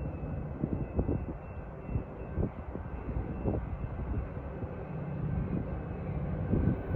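Low rumble of a train rolling by, with irregular knocks.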